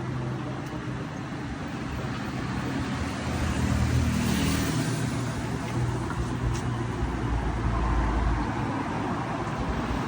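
Motor vehicle traffic: engines running under a steady low hum. One vehicle grows louder and passes about three to five seconds in, and a deeper rumble follows later.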